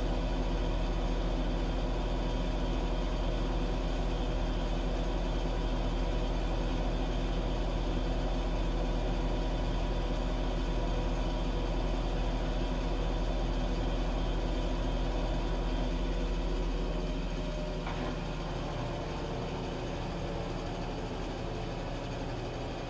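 Washing machine running with a steady motor hum. About three quarters of the way through the hum drops in level and its low drone weakens, followed by a single click.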